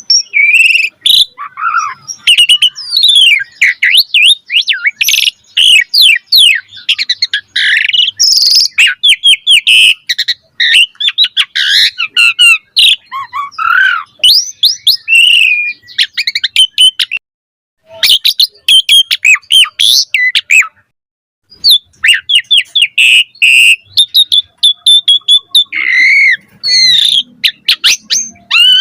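Asian pied starling (jalak suren) singing a fast, loud, varied song of whistles, pitch glides and chattering notes, broken by two short pauses.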